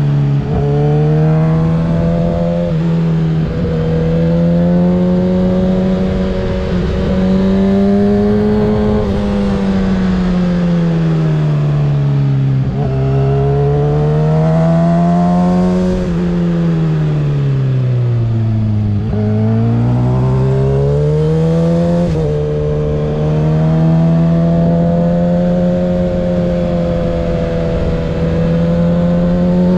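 2024 Kawasaki ZX-6R 636's inline-four engine with a Graves aftermarket exhaust, heard while riding: the engine note rises and falls as the throttle is opened and closed. It drops low twice around the middle, as if slowing, then climbs again, with brief sudden steps in pitch between.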